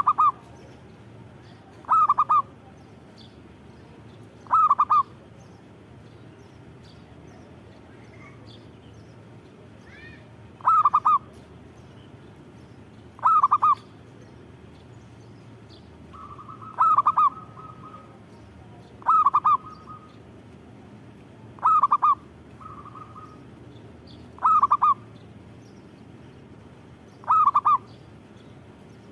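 Zebra dove (perkutut) cooing: short rolling phrases repeated about every two to three seconds, about ten in all, with a longer pause after the third.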